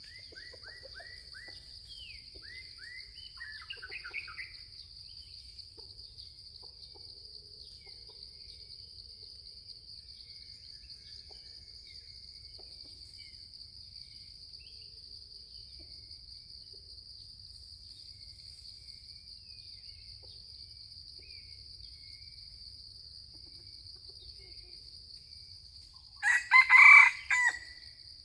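A junglefowl rooster crows once, loud, for about a second and a half, near the end, over a steady high insect drone. In the first few seconds a small bird gives a quick series of falling chirps.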